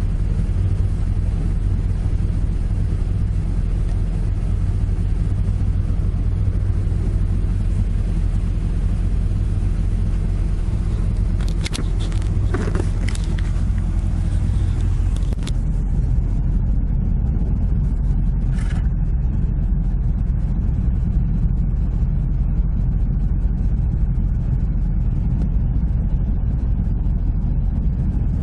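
Toyota AE86's five-valve 4A-G four-cylinder engine idling steadily, with a cluster of clicks and knocks about twelve to fifteen seconds in as the car door is opened, and a brief high squeak a few seconds later.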